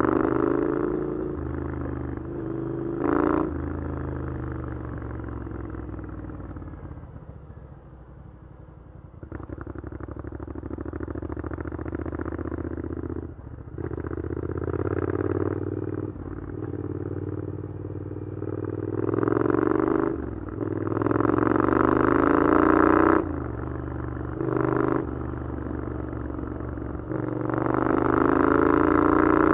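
Triumph Scrambler 900's parallel-twin engine through an Arrow exhaust, riding in traffic on and off the throttle. It opens up repeatedly with rising pitch as the bike accelerates and eases off to a quieter run around a quarter of the way in. The loudest pulls come in the second half and near the end.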